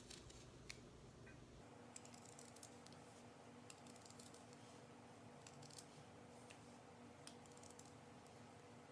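Faint, irregular clicks of a knife meeting a cutting board as a potato is cut into thin rounds, over a quiet room hum.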